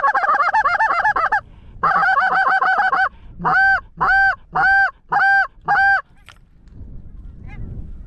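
Canada goose calling on a hunter's goose call. It starts with two fast runs of clucks, then gives five drawn-out honks about half a second apart.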